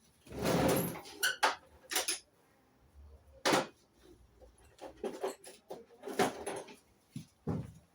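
Metal clinks, knocks and scrapes of a screwdriver and engine parts being handled while the carburettor fittings are undone: a string of separate short clatters, the longest about half a second in.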